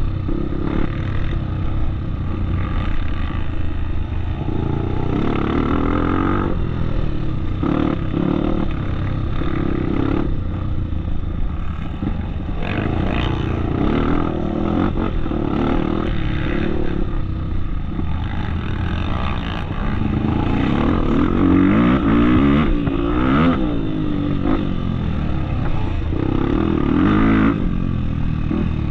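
Off-road motorcycle engine running under way, its pitch rising and falling again and again as the throttle is opened and closed, with scattered knocks and rattles.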